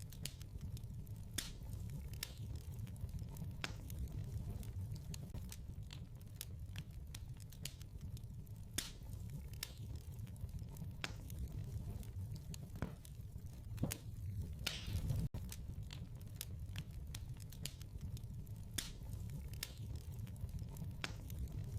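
Wood fire burning in a fireplace: irregular crackles and snaps over a steady low rumble of the flames, with a louder burst of crackling about fifteen seconds in.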